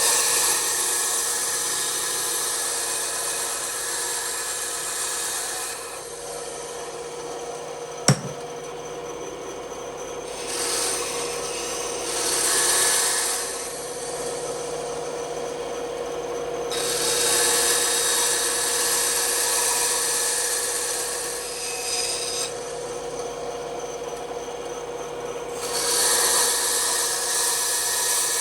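Bandsaw running with a steady hum while its blade cuts through wood, the hissing cut noise rising and falling several times as the workpiece is fed in and eased off. A single sharp click about eight seconds in.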